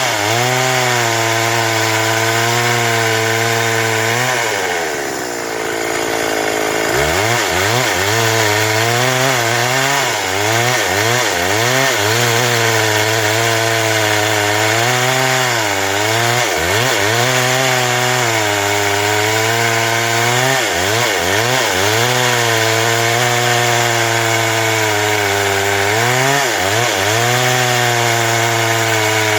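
Stihl MS 382 two-stroke chainsaw running hard while cutting wood, its pitch sagging and recovering again and again as the chain loads in the cut. About five seconds in, the engine falls off toward idle for a second or two, then revs back up and keeps cutting.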